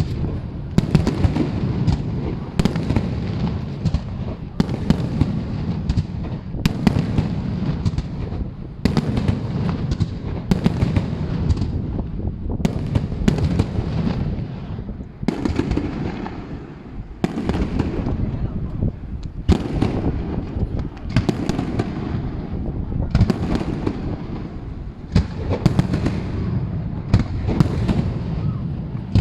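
Fireworks going off continuously: a steady run of sharp bangs, one to three a second, each with a rolling rumble, over a constant low rumble of the display.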